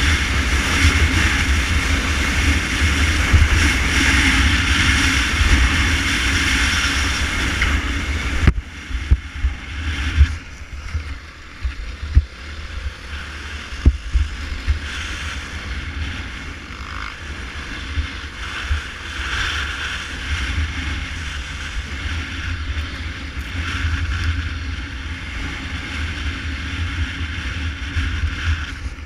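Honda Tornado 250 single-cylinder trail motorcycle running while ridden, its engine mixed with heavy wind noise on the microphone. About eight seconds in the sound drops suddenly, followed by a few sharp knocks and thumps, then quieter steady running.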